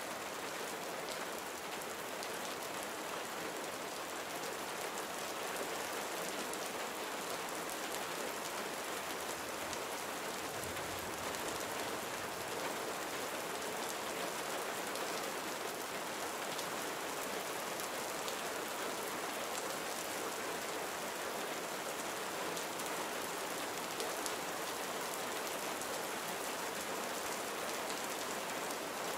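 Gentle rain falling steadily, a soft even patter of drops landing on a surface.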